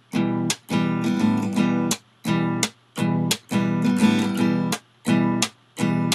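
Acoustic guitar strumming chords in a choppy rhythm, each chord cut off short with a brief silence before the next.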